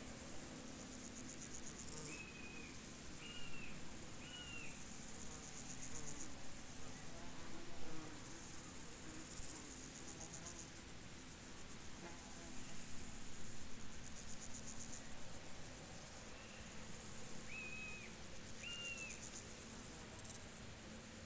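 Insects chirping in high, rapid pulsed trills that come in bursts every few seconds. Two sets of three short, higher calls stand out, one near the start and one near the end, over a low steady hum.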